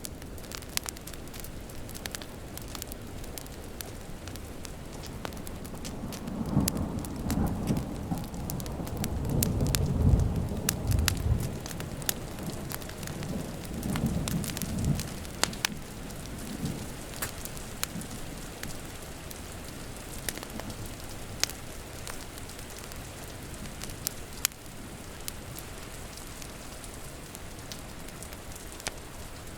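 Steady rain with a wood fire crackling in sharp clicks, and a roll of thunder rumbling in about six seconds in, loudest around ten seconds, fading out by about sixteen seconds.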